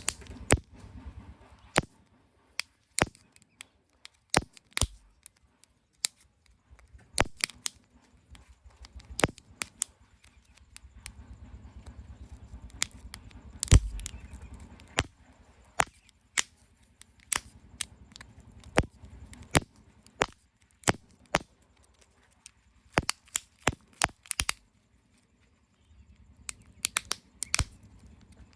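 Irregular sharp clicks and snaps of plastic surprise-egg capsules and packaging being handled and opened, one to a few a second, with a heavier knock about halfway through.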